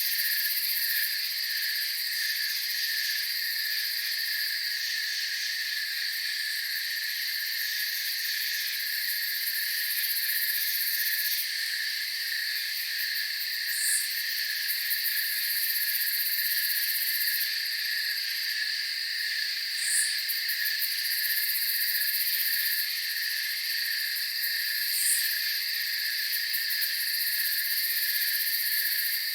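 Night chorus of crickets: several layers of steady, rapidly pulsing chirping trills at different pitches, with three short, higher chirps standing out about 14, 20 and 25 seconds in.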